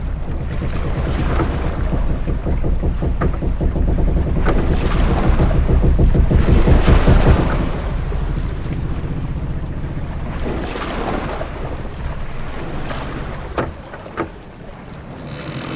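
Ship-at-sea ambience: waves and wind washing around a sailing ship's hull in a rumbling surge that builds to a peak about halfway through, then eases. Two short sharp knocks come near the end.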